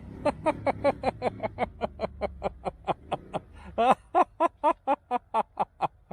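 A person laughing in a long, even run of short 'ha' pulses, about four to five a second, pausing briefly a little over three seconds in and then carrying on.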